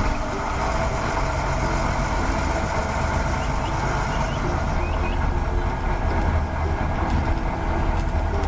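A heavy vehicle engine running steadily, heavy on the low end.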